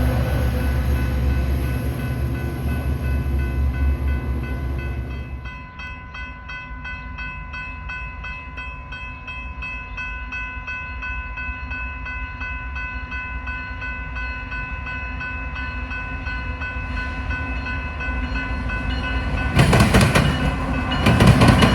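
A train running past, its low rumble loud for the first five seconds or so and then falling away, with steady tones carrying on underneath. Near the end the train noise rises sharply again.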